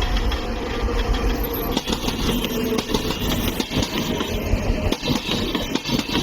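Electric-locomotive-hauled train running past, a loud steady rush with low rumble and many short knocks from the wheels on the track.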